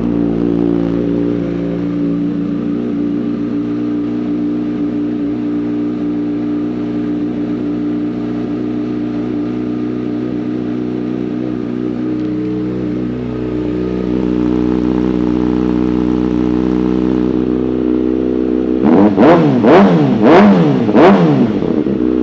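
2013 Kawasaki Ninja ZX-6R 636's inline-four engine, fitted with an M4 aftermarket exhaust, idling steadily just after start-up. Near the end the throttle is blipped several times in quick succession, the revs rising and falling before it settles back to idle.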